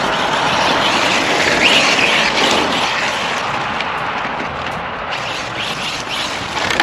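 Battery-powered 1/8-scale Serpent SRX8 RC buggy being driven, its electric motor whining and its tyres rushing over the ground, with a brief rise in pitch about two seconds in as it speeds up.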